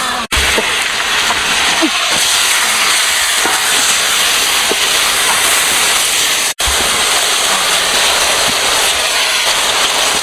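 A loud, steady hiss, cut off for an instant twice.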